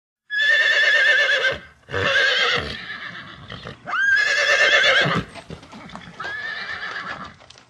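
Horse whinnying four times, each call a loud, high, quavering neigh about a second long, the third sweeping up in pitch at its start.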